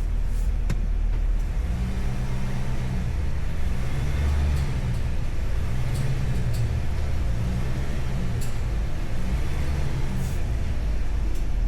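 Chevrolet Tahoe's engine pulling at low revs under load as the full-size SUV creeps up a steep, tight garage ramp. It is a steady low rumble whose engine note swells and eases every second or two.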